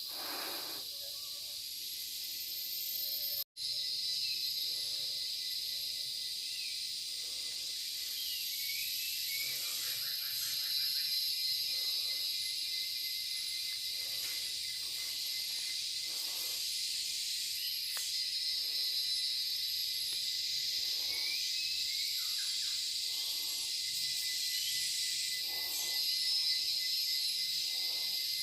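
Tropical rainforest insect chorus of crickets and cicadas, a steady high-pitched drone, with short bird chirps now and then. The sound cuts out for a moment about three and a half seconds in.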